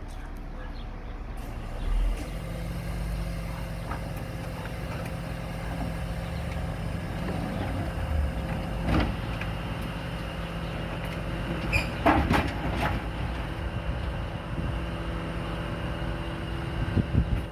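Scania R500 truck's diesel engine running steadily, its note picking up about two seconds in, with a few sharp metallic knocks and clatters over it.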